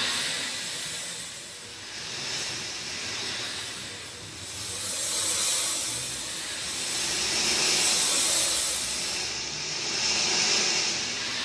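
Rain falling steadily, a dense hiss that swells and eases every two to three seconds.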